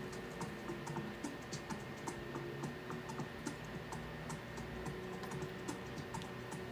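Many light, irregular clicks and taps, several a second, over soft background music.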